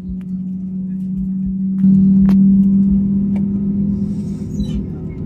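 Airbus A320neo during taxi: a steady low hum with a strong pitched tone over a rumble. It swells louder about two seconds in, with a few light clicks and rattles.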